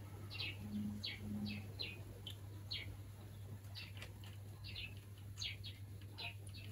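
Faint bird chirping: many short, high chirps at irregular intervals, with two short low tones about a second in, over a steady low hum.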